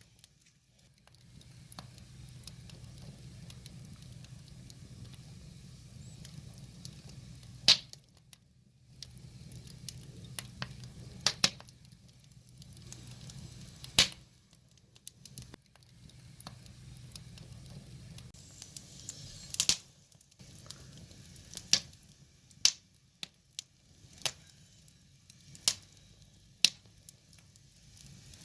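Wood fire crackling: a soft hiss broken by sharp pops every second or two as the logs burn. A low steady rumble sits underneath for the first two-thirds.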